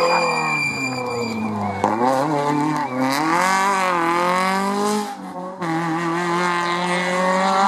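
Rally car engine running hard. The pitch rises through the revs, drops briefly about five seconds in, then holds a steady note.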